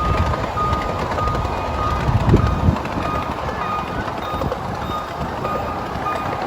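Miniature tourist train running with a steady rumble, while a short high beep repeats about twice a second.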